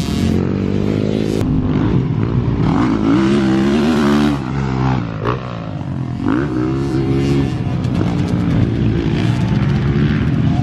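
Dirt bike engine running and revving, its pitch rising and falling in repeated sweeps, with a brief dip in loudness about five seconds in.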